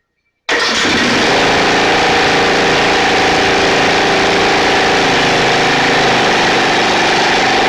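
The riding mower's 12.5 hp Briggs & Stratton engine running steadily after a hard-starting spell, cutting in suddenly about half a second in.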